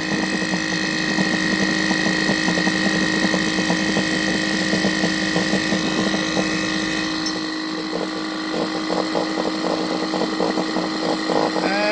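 A 12 V Viair air-ride compressor running steadily against a rising load with a hum, a whine and hiss, building pressure near its maximum of about 150 PSI during a max-pressure test. A rapid rattling ticking grows in the second half.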